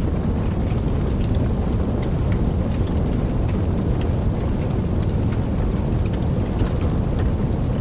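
Wood fire burning with a steady low rumble of flame and frequent small, scattered crackles and pops.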